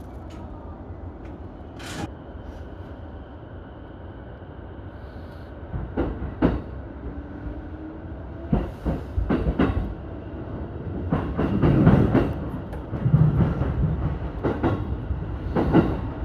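Electric commuter train (JR E233-1000 series) with a steady low hum at first. About six seconds in, its wheels start clacking over rail joints and points, and the clacks come closer together and louder as the train gathers speed.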